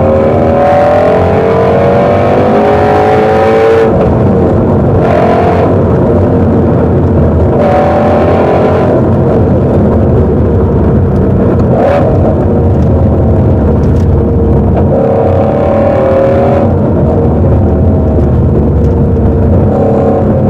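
Ford Mustang Shelby GT350's 5.2-litre Voodoo flat-plane-crank V8 driving hard. Its note climbs in pitch under acceleration, breaks off at each gear change and climbs again several times.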